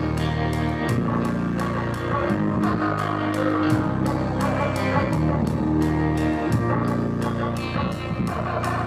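Live rock band playing: electric guitar over bass, with drums keeping a steady beat.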